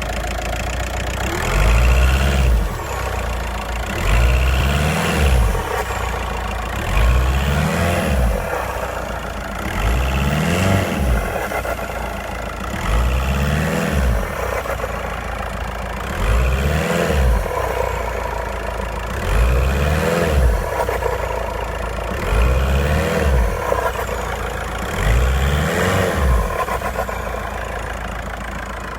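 VW Passat B6 turbodiesel engine revved about nine times to around 2000 rpm and let drop back to idle. Each rev brings a rising and falling whistle and a noise like air escaping through the air intake, which the owner takes for a fault; at idle the engine runs normally.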